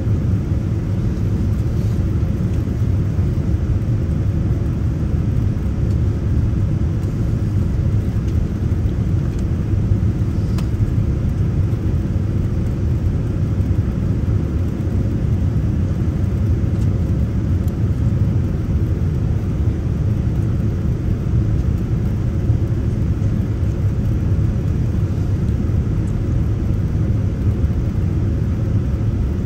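Steady low rumble of an airliner's engines and airflow heard inside the passenger cabin during the descent to landing.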